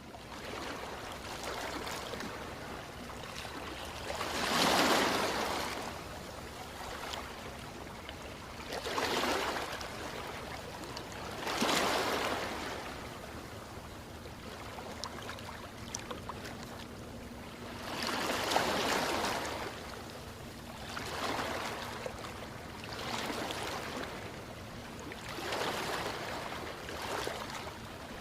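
Ocean waves washing in, about seven surges rising and falling every few seconds over a steady hiss of moving water.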